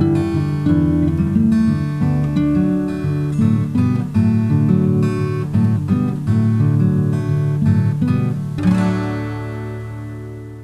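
Acoustic guitar music, fingerpicked notes ending on a strummed final chord about nine seconds in that rings out and fades away.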